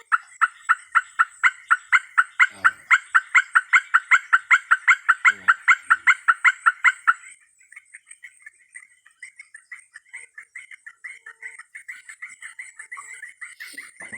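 An unidentified animal calling: a fast, even series of high notes, about five a second, loud for about seven seconds, then carrying on more faintly.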